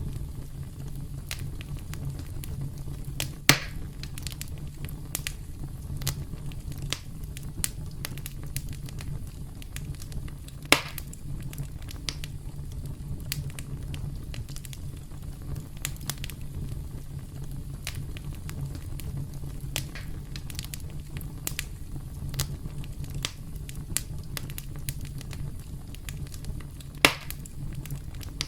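Campfire crackling: a steady low rumble of flames with frequent small snaps, and three louder pops spread through it.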